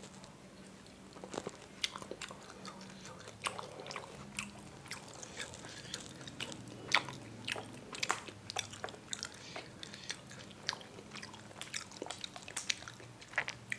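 Close-miked chewing of bakso meatballs, full of short sharp mouth clicks, with a fork and knife cutting into the food on the tray.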